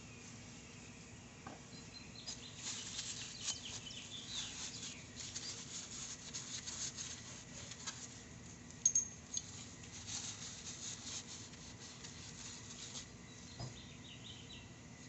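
Bursts of quick scratchy rubbing and scraping from hand work on the motorcycle's brake parts, starting about two seconds in and stopping near the end, with one brief high squeak about nine seconds in.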